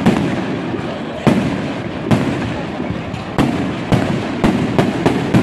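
Aerial fireworks shells bursting overhead: a string of about nine sharp bangs, coming roughly every half second to second. Each bang trails off into a rolling echo and crackle.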